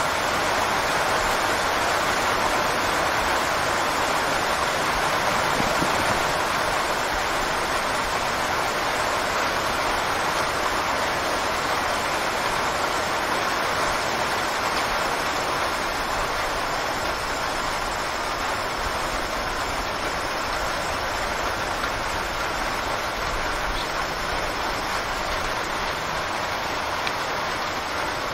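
Steady rain, an even unbroken hiss of rainfall, easing slightly toward the end.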